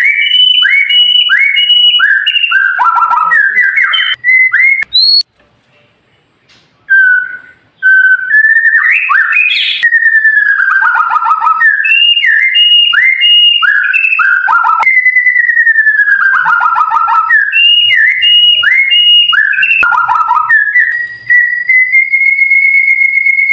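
White-rumped shama (murai batu) singing: fast runs of repeated whistled notes that each slide downward, broken by a pause of a couple of seconds about five seconds in, then ending on one long steady whistle.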